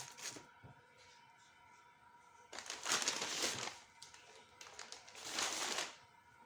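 Two bursts of rustling, crinkling noise, the first about a second long and the second shorter, after a brief knock at the start.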